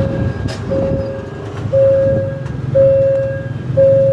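Railway level-crossing warning alarm sounding a steady electronic tone about once a second while the barriers are down, warning that a train is approaching. A low steady rumble runs underneath.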